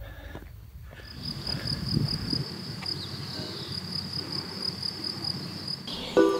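Insects chirping: a high, thin trill broken into quick pulses, about five a second, starting about a second in.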